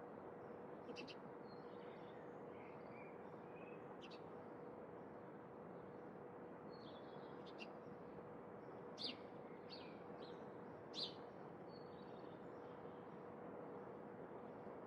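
Small birds chirping now and then, in short high calls, over a steady background hiss with a faint constant hum. The two loudest chirps come about nine and eleven seconds in.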